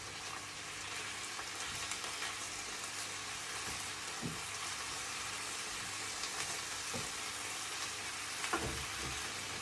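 Bite-sized chicken pieces sizzling steadily as they fry in a pan, with a few light knocks about halfway through and near the end.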